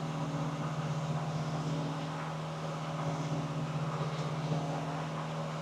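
Semi-truck diesel engine idling steadily, a constant low hum.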